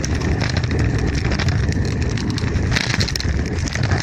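Small wheels rolling and rattling over a rough path while riding along, with wind buffeting the microphone as a steady low rumble.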